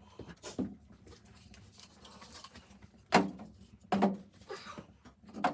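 Four separate sharp knocks or thumps at uneven intervals, the loudest two about a second apart in the middle, over a faint steady low hum.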